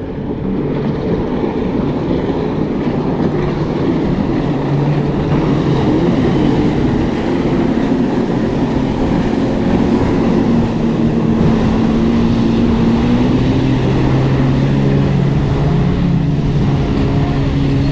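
Sea-Doo personal watercraft engines droning as they pass, a steady hum whose pitch drifts slowly up and down.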